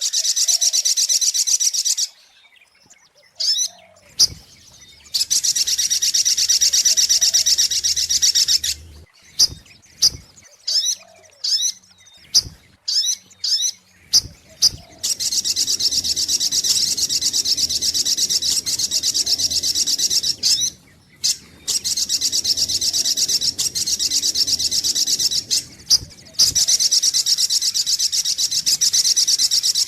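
Recorded lure call of a sogok ontong sunbird: long, fast, high-pitched trills lasting several seconds each. Early on and again in the middle they break into a run of short separate chirps.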